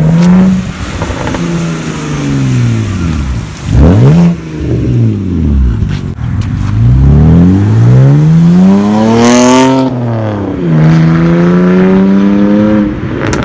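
Straight-piped BMW 323i straight-six revving loudly. The pitch falls over the first few seconds, jumps up and back in a quick blip near four seconds, then climbs steadily for about four seconds before dropping off suddenly, and settles into a steadier, slowly rising run.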